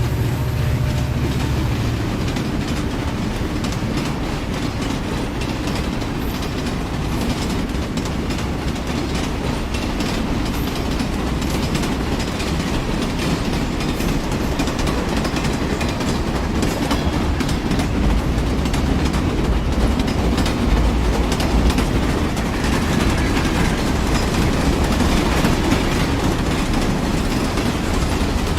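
A train running along the track, making a continuous, steady rumble and rattle.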